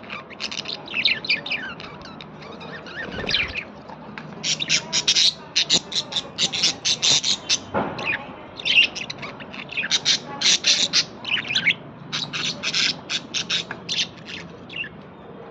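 Small birds calling: rapid runs of sharp chirps and squawks, coming in clusters with short pauses between them.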